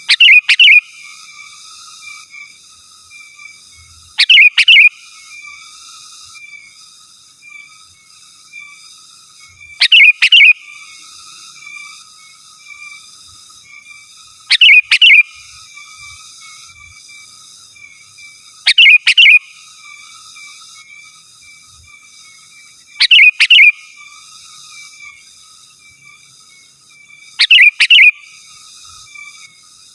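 Sooty-headed bulbul (kutilang) calling: seven loud, short bursts of notes, one every four to five seconds, over faint continuous high chirping.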